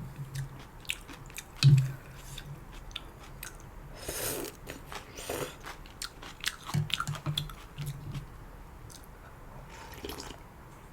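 Close-up eating sounds of a person chewing janchi guksu noodles: wet chewing with many small crisp clicks and crunches, and two short airy bursts about four and five seconds in.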